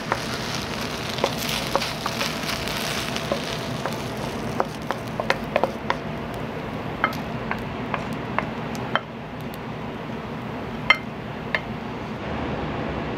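Kitchen work: a steady sizzle of food frying in oil, strongest in the first few seconds, with scattered sharp clinks of utensils and dishes. Near the end a steady hum takes over.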